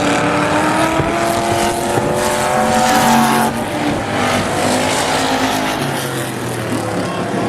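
Several race engines running hard together around an oval track, their pitches rising gradually over the first few seconds and then shifting as the vehicles pass.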